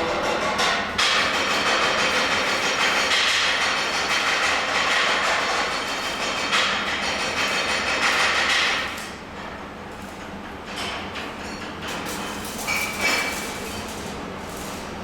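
Metalworking noise in a welding shop: a loud, steady hissing and crackling noise for about nine seconds, then quieter, with a few short knocks near the end.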